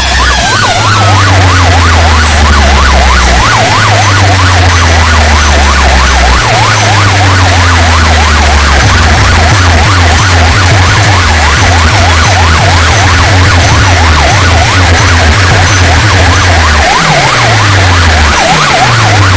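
DJ competition track blasted through large sound-box speaker stacks: a fast, repeating siren wail over heavy bass notes, with falling bass slides near the end.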